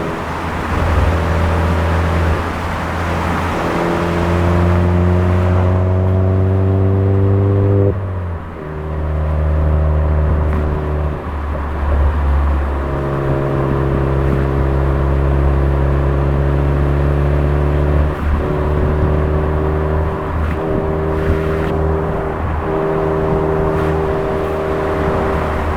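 Suzuki Swift Sport ZC33S's 1.4-litre turbocharged four-cylinder engine through a Fujitsubo aftermarket exhaust, heard under way with a steady drone. The pitch climbs slowly, then drops sharply about eight seconds in and shifts again a few times later, as with gear changes.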